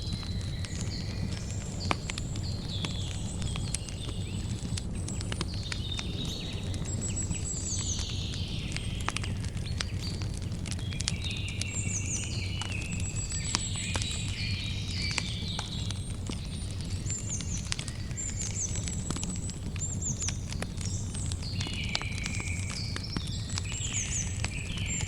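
Campfire crackling, with many small sharp pops scattered over a steady low rumble. Birds chirp and twitter throughout, in short repeated phrases.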